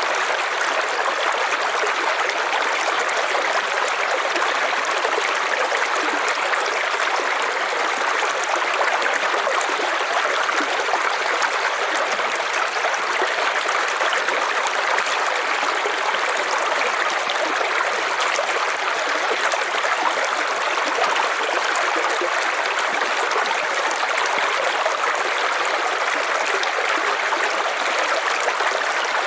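River water flowing, a steady, even rush with no changes.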